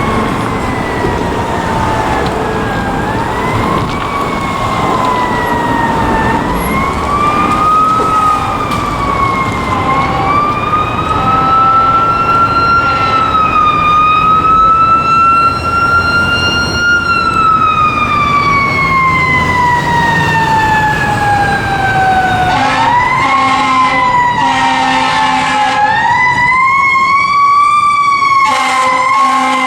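Fire engine siren on a 2007 American LaFrance pumper wailing in slow rising and falling sweeps, with one long fall through the middle. Near the end, short blasts of a lower horn sound alongside it.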